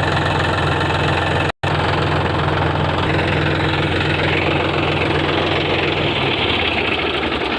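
Tractor engine running steadily, broken by a brief cut to silence about a second and a half in.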